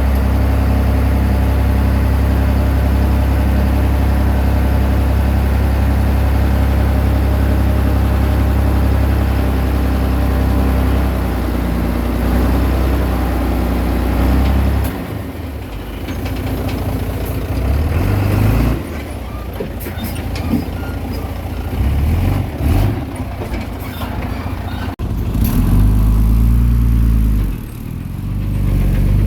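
Komatsu D20P bulldozer's diesel engine running loudly and steadily as it works pushing soil. About halfway through the sound drops and turns uneven, rising and falling, with a loud surge near the end.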